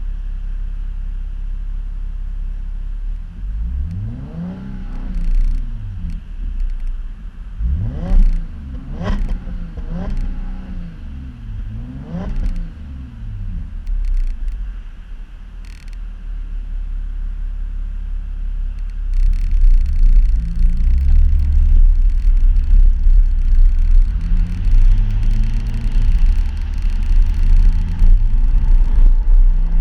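Audi B8 S4's supercharged 3.0-litre V6 through a Scorpion exhaust, idling, then revved in about five quick throttle blips, each pitch rising and falling back. From about two-thirds of the way in it runs louder, its pitch climbing and dropping in steps.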